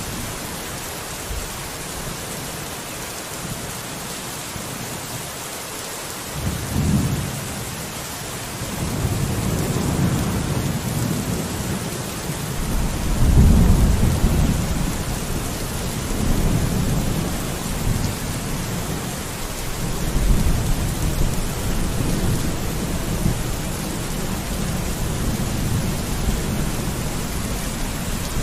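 Steady rain hiss on a window, with low rolling thunder rumbling in about six seconds in and swelling again several times, loudest around the middle.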